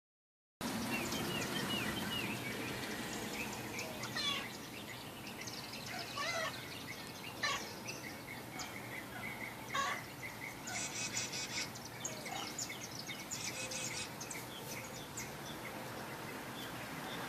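Small birds chirping outdoors in short repeated calls, with quick runs of high chirps here and there, over a steady background hiss.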